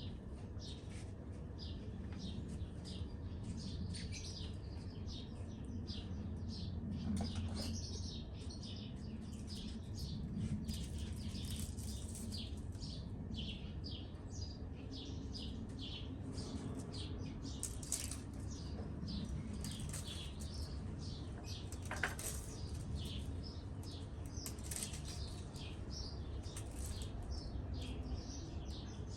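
Songbirds chirping rapidly and continuously over a steady low rumble, with an occasional sharp click.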